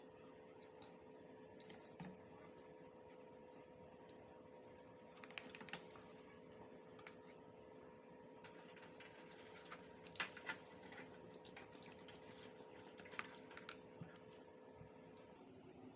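Faint, scattered small clicks and light taps, bunched about a third of the way in and through the second half, over a steady faint electrical hum.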